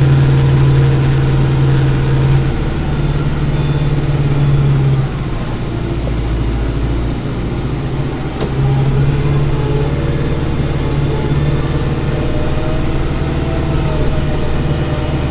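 Kubota compact tractor's diesel engine running steadily under load, heard from inside the cab. Its note drops about five seconds in and comes back up a few seconds later as the load changes.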